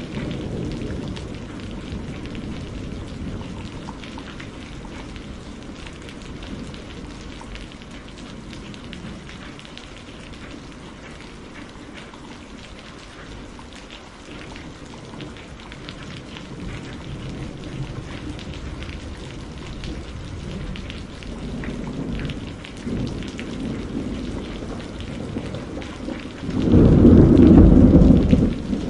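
Steady rain with thunder: a low rumble dies away over the first few seconds, rumbling builds again about two-thirds of the way through, and a loud thunderclap rolls in near the end.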